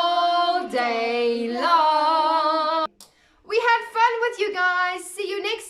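A woman and a child singing a children's song together, with long held notes; the singing breaks off briefly about three seconds in, then carries on.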